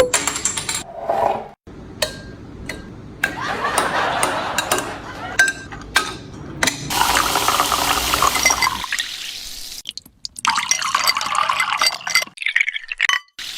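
Water pouring and running into a container, broken up by abrupt cuts, with a few clinks of dishes.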